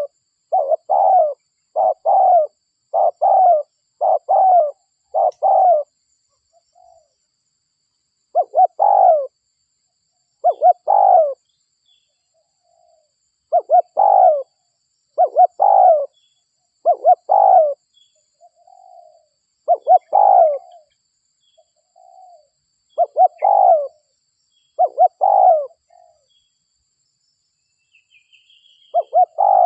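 Spotted dove (derkuku) cooing over and over in short clusters of low coos, with brief pauses between phrases: a bird in full song, used as a lure call to draw in wild doves. A faint, thin chirping from a small bird comes in near the end.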